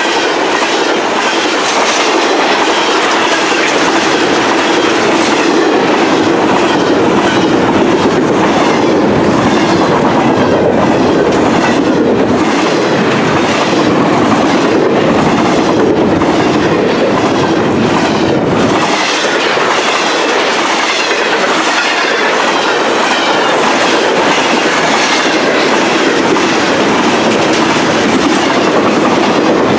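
Cars of an intermodal freight train rolling past at speed: a steady loud rumble with a rapid, regular clickety-clack of wheels over rail joints.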